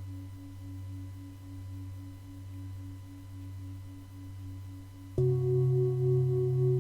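Singing bowls sounding long, sustained tones, the lower tones pulsing in a slow, even beat. About five seconds in, a louder, higher set of bowl tones comes in suddenly and rings on steadily.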